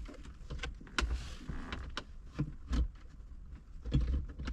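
A handful of separate sharp clicks and light knocks, each with a low thump, about one a second: interior trim pieces of an SUV being handled and fitted.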